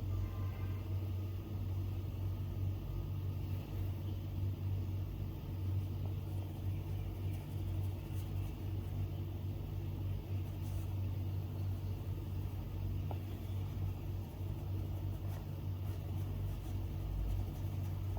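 A steady low hum or rumble, unbroken and even, with a few faint light ticks over it.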